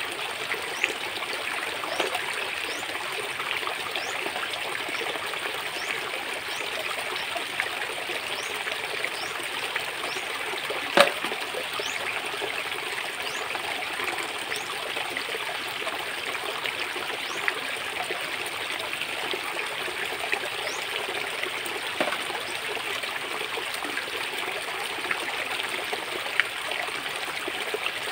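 Shallow stream trickling steadily over stones, with small splashes and clicks as hands feel through the water for freshwater snails; one sharp click stands out partway through.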